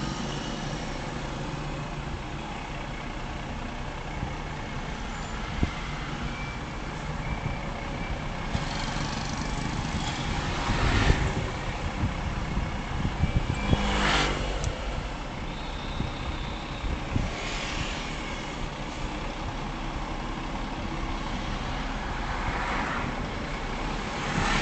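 Road traffic: a steady engine and tyre rumble, with vehicles passing close by about five times.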